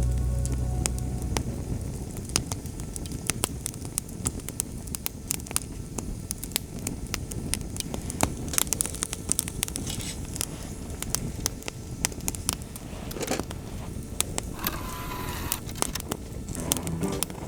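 Wood fire burning in a fire pit, crackling with many sharp pops and snaps at irregular intervals and a brief hiss about nine seconds in. The split firewood is not fully dry.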